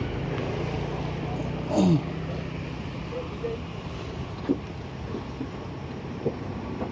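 Truck engine running steadily, with a short falling vocal-like cry about two seconds in.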